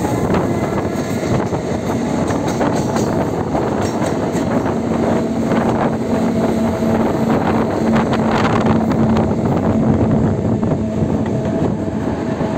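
Netaji Express (Kalka Mail) train running on the rails: a steady, loud rumble of wheels and carriages, with a steady hum joining about five seconds in.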